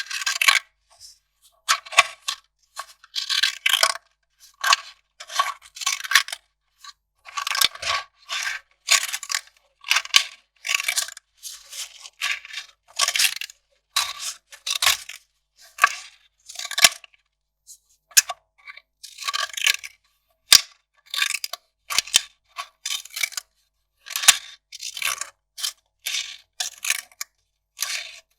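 Kraft paper being crinkled and torn: an irregular string of short rustling bursts, one or two a second, with a few sharp clicks between them.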